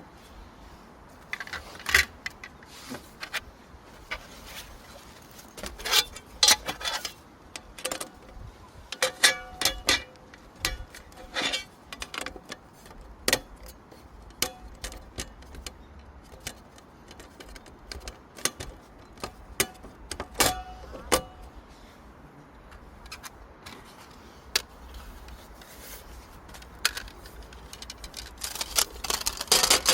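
Metal objects being handled: irregular clinks and knocks, some with a short ringing note, coming in clusters.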